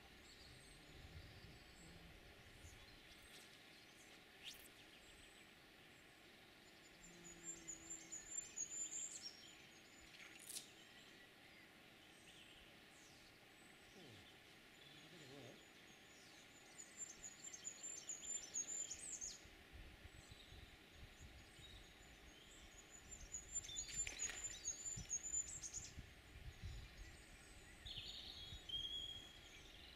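Faint songbirds: a high, thin trilling phrase repeats about four times, with a few short chirps near the end, over a soft steady hiss.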